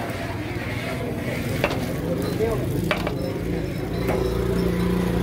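Food sizzling in a pan while being stirred, with a few sharp knocks of the utensil. A low steady hum joins about three and a half seconds in.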